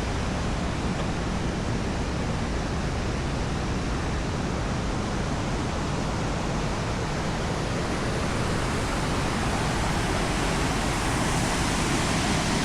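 Steady rush of the Big Sioux River's waterfalls pouring over quartzite rock, growing a little louder near the end.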